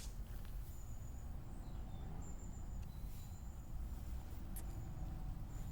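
Outdoor ambience: a steady low rumble with faint, intermittent high-pitched chirping, and a sharp click right at the start.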